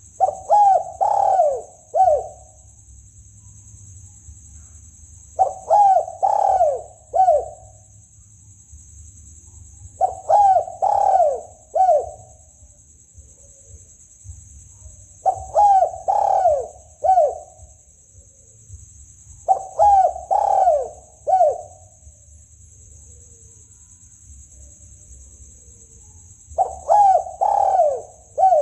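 Spotted dove (tekukur) song played as a hunting lure: six cooing phrases about every four to five seconds, each a quick run of rising-and-falling coos ending in a short separate note. A steady high whine runs underneath.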